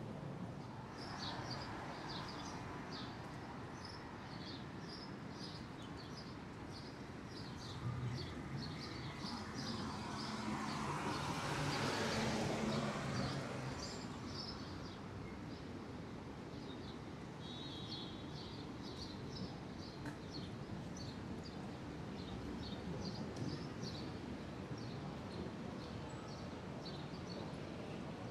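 Small birds chirping, many short chirps a couple a second, over a steady city street hum. A louder swell of passing traffic rises and fades around the middle.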